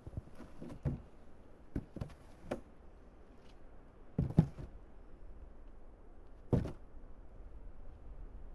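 A series of irregular knocks and thuds, a few light ones early on and the loudest as a double knock about four seconds in, with another single thud a little past six seconds.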